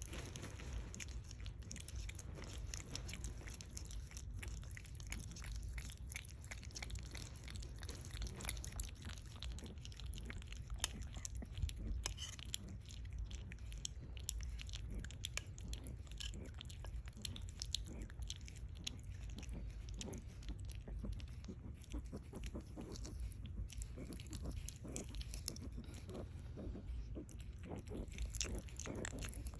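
A pet chewing and crunching food, with many quick, irregular crunches and bites.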